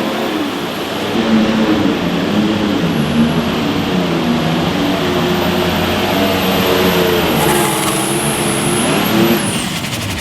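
Pulling vehicle's engine running hard at high revs, its pitch wavering up and down, then easing off near the end.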